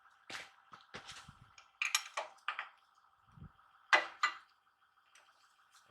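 Metal hand tools clinking and clanking against metal: about six sharp, separate clanks, the loudest about four seconds in.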